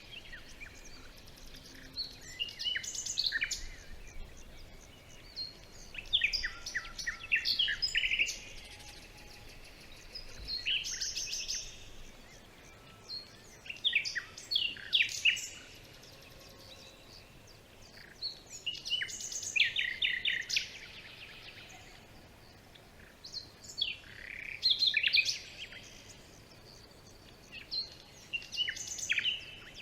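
A songbird singing in the forest: about seven short phrases of quick, sharp notes, one every three to five seconds, over a faint steady background.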